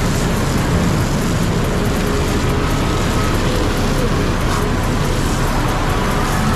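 Dump truck's engine running, with a steady, unbroken noise and no distinct knocks or changes.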